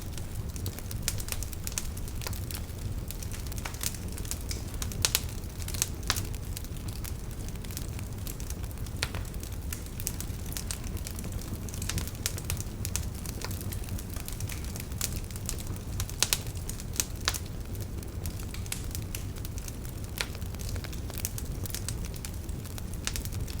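Campfire crackling and popping in irregular sharp snaps, the loudest about five seconds in and around sixteen seconds in, over a steady low rush of flowing river water.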